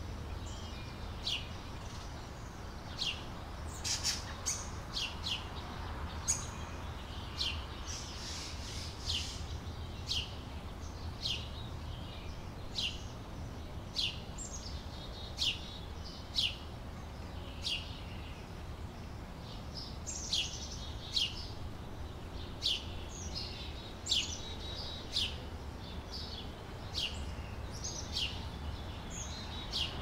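A bird chirping: short, high notes that slide downward, repeated about once a second, over a low steady rumble.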